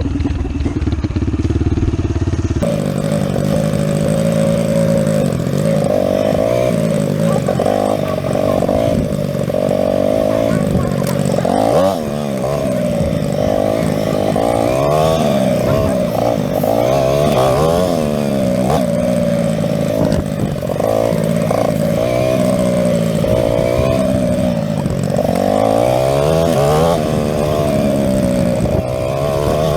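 Dirt bike engine revving, its pitch climbing and falling again and again as the throttle is rolled on and off.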